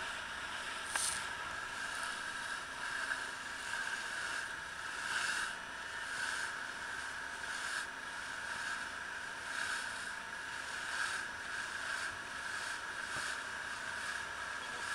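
Small ferry boat under way: a steady engine drone with rushing water, swelling every few seconds as the hull hits waves and throws spray.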